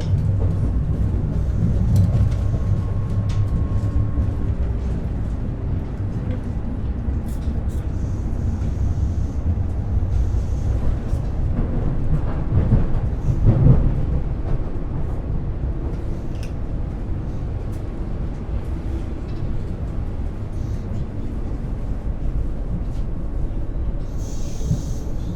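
Interior of an Ivolga (EG2Tv) electric commuter train running: a steady low rumble of wheels on rails, with a few light clicks and a brief louder surge about halfway through.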